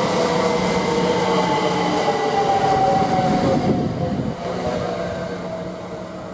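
Great Northern Class 387 electric multiple unit slowing into the platform: its motor whine falls steadily in pitch over a steady low hum and rail noise, fading near the end as the train comes to a stop.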